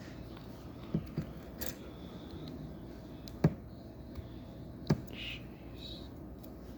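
Plastic Lego pieces being handled and clicked together, with a handful of sharp separate clicks, the loudest two about three and a half and five seconds in.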